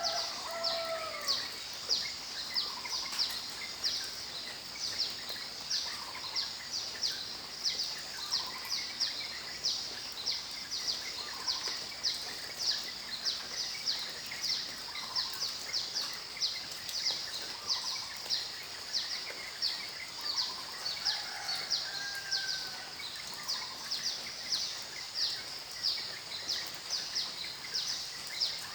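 Nature soundscape: a high-pitched chirp repeating quickly, about three times a second, over a steady hiss of rain, with lower whistled bird calls gliding down in pitch every second or two.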